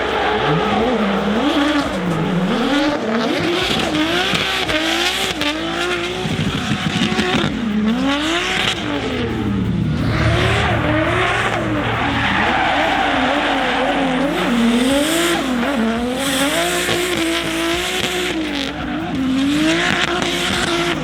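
Drift car engines revving hard, the pitch climbing and dropping every second or two as the throttle is worked, with tyres squealing as the cars slide.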